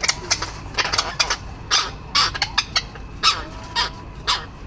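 Tropicbirds calling in a nesting-ground dispute, short harsh calls in quick succession, about two a second.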